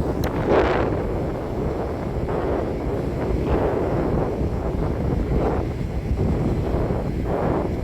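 Strong wind buffeting the microphone in gusts, a steady low rumble that swells every second or two.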